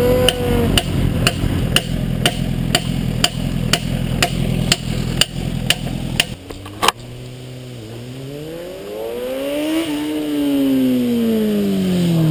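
Motorcycle engine running with a sharp, regular knock about twice a second. The sound changes abruptly with a single sharp bang about seven seconds in. After that, an engine note climbs for about three seconds and then falls away.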